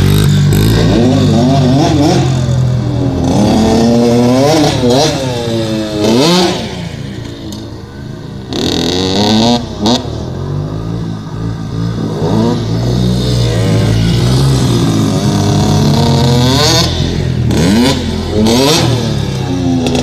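Dirt bike engines revving up and falling back again and again, the pitch climbing and dropping in repeated surges as the bikes are ridden.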